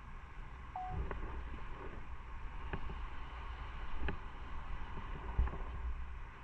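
Motorcycle running on the road, a steady low engine rumble with wind noise on the microphone and a few brief knocks.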